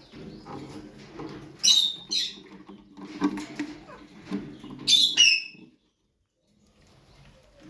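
Raw parrots (Alexandrine parakeets) giving two loud, harsh screeches a few seconds apart, over a lower, raspy chatter. The sound cuts out for about a second near the end.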